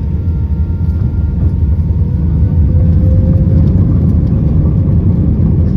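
Airbus A320 engine and airframe noise heard from inside the passenger cabin: a loud, steady low rumble with faint engine tones above it. It grows louder about one and a half seconds in, as one tone creeps slightly upward.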